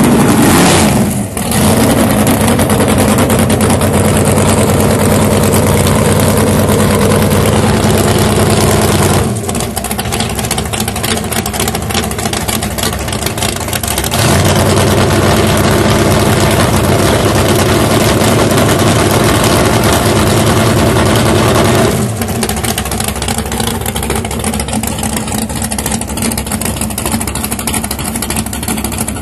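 Drag racing car engines running loudly at a steady, high speed, with a brief surge at the start; the sound drops in level about nine seconds in, comes back about five seconds later, and drops again near the end.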